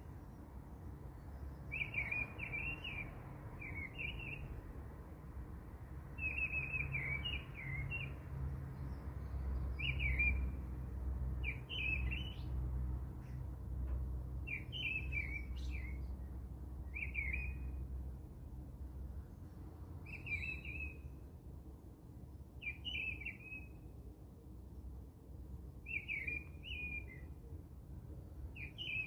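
A small bird chirping in short, bright twittering phrases, repeating every two or three seconds over a low steady hum.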